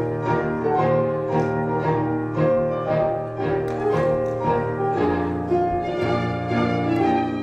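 A national anthem played instrumentally on bowed strings and piano, with sustained melodic notes.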